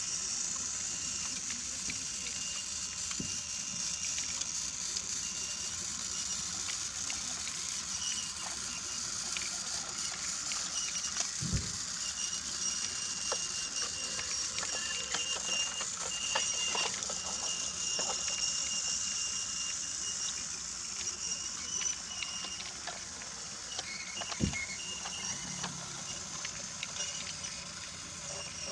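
Battery-powered Brio toy train running on wooden track: a steady high motor whir with scattered light clicks of the wheels over the track, and two dull knocks, one near the middle and one near the end.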